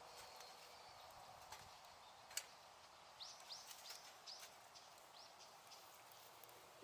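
Small wood campfire crackling faintly, with scattered pops and one sharper pop about two and a half seconds in. Midway, a bird gives a quick run of about six short high chirps.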